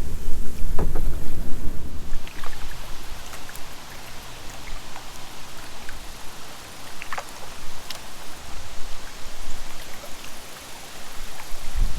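Creek water rushing and trickling around a kayak, with scattered drips and small splashes. A low rumble fades out about two seconds in.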